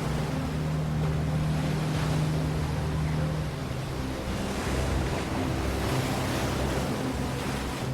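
Steady rushing ocean water of an underwater sound bed, with a low held drone beneath that drops out about halfway through.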